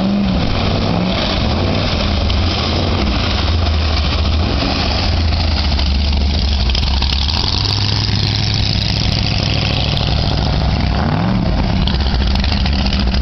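Speedboat engine running loud and steady under a constant rushing noise, with a brief shift in engine pitch about eleven seconds in.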